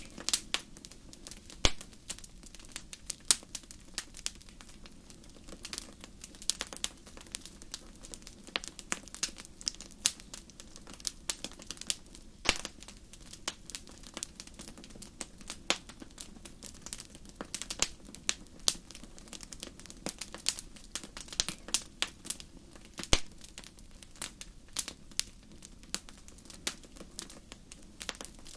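Wood fire crackling in a fireplace: many irregular sharp pops and snaps over a low steady rumble of burning.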